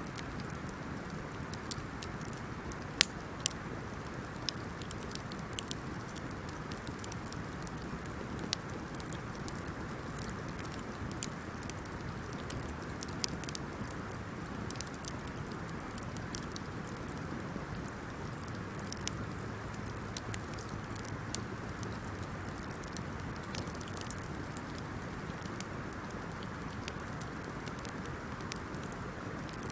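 Wood campfire burning: a steady hiss with frequent sharp crackles and pops, the loudest pop about three seconds in.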